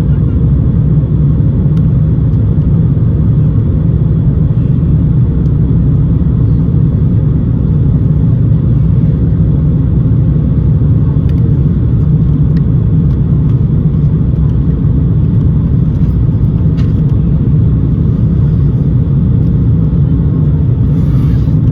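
Steady low cabin noise of an Airbus A350 in flight: its Rolls-Royce Trent XWB engines and airflow heard from inside the cabin, unchanging throughout.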